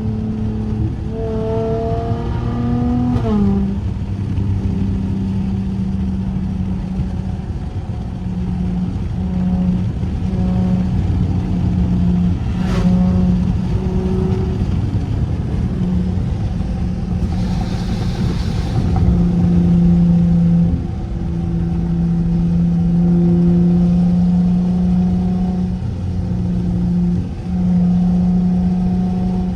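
Straight-piped SXT exhaust heard from inside the cabin: revs climb for the first few seconds, drop sharply at an upshift about three seconds in, then settle into a steady cruising drone. A brief rush of hiss comes about two-thirds of the way through.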